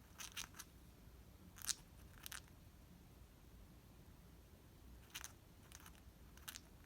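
A pet bird cracking its beak: short, quiet bursts of dry crunching clicks in six little clusters, a sign of a bird relaxed and drifting off to sleep.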